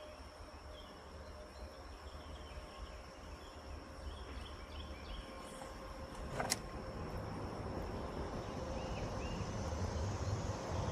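Road traffic passing over a bridge, a low rumble that grows louder toward the end, under a steady high drone of insects. A single sharp click about six and a half seconds in.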